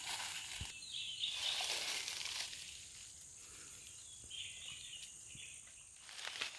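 Outdoor ambience: a steady high insect drone with a couple of short spells of bird chirping, and some rustling in the first two seconds.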